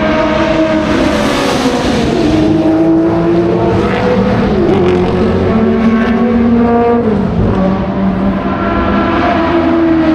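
Several historic race car engines running loud at once, their pitches rising and falling and overlapping.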